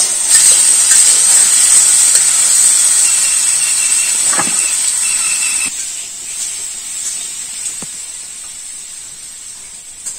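Food frying in hot oil in a pot over a wood-fired mud stove: a loud, steady sizzle. It cuts off sharply about six seconds in, leaving a much quieter outdoor hiss.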